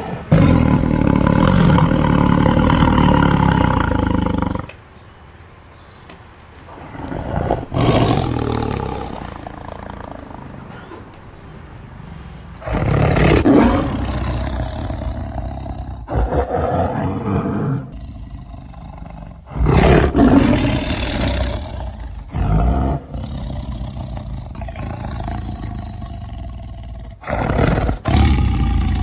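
Tiger roaring and growling in several separate loud bursts, with quieter stretches between them.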